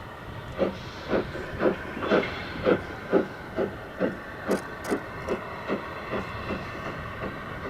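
Steam locomotive pulling away: exhaust chuffs about two a second, quickening slightly and fading after the first few seconds, over a steady hiss of steam.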